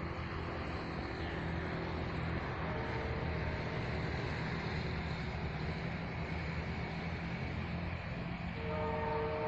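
Passenger train running by with a steady low engine drone under a rush of noise. A few faint steady tones come in about eight and a half seconds in.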